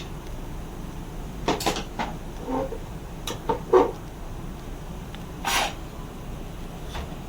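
A few short knocks and clinks of tools and parts being handled during the work on the truck's AC blower motor, with a short scraping burst about five and a half seconds in.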